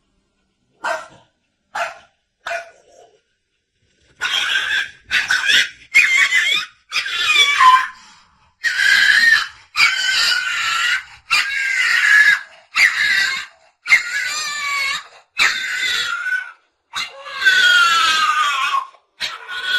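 A dog crying out: a few short yelps, then from about four seconds in a long run of loud, high-pitched drawn-out whining cries, each about a second long and bending in pitch.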